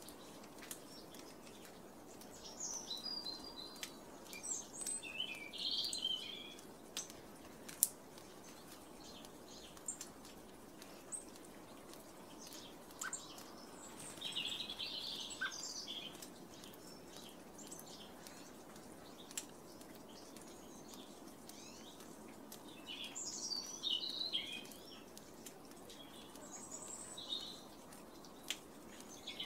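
Small songbirds chirping and twittering in short bursts, with scattered sharp clicks over a faint steady outdoor background.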